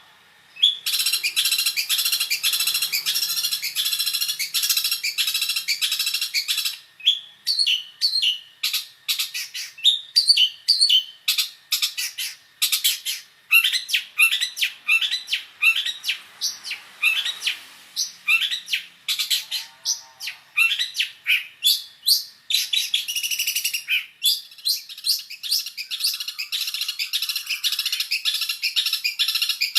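Long-tailed shrike (cendet) singing a varied song full of mimicked fill-in phrases from other birds. It opens with a fast dense chatter, moves into a run of separate short notes and quick slurred whistles, and near the end goes back to a dense chattering stretch.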